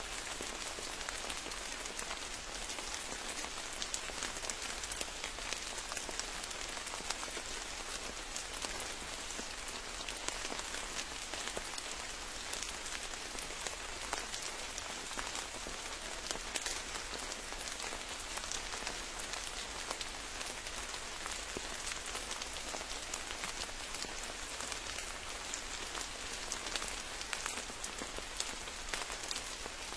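Steady rain falling, a constant wash of noise with many separate, sharp drop hits through it.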